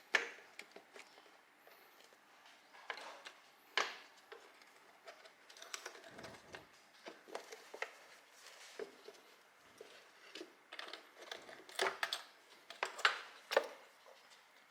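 Scattered light clicks and knocks of a plastic air filter housing cover being handled and lifted off, with a cluster of louder knocks near the end.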